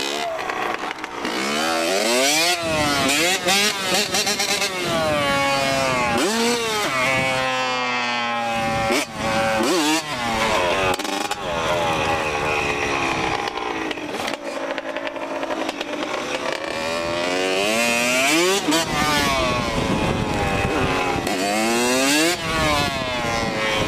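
Several dirt bike engines revving up and down and riding past, their overlapping pitches rising and falling again and again.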